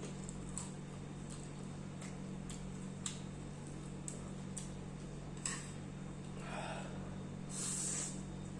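Close-miked eating sounds: scattered mouth clicks and smacks while chewing, with a short breathy rush near the end, over a steady low hum.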